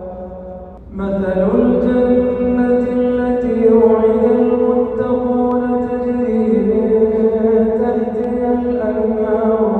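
A man reciting the Quran in a melodic chant, drawing out long sustained notes that slide slowly in pitch. The voice breaks off just before a second in, then starts a new drawn-out phrase.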